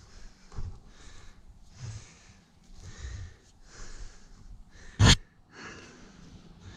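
A person breathing heavily, about one breath a second, with a single sharp knock about five seconds in.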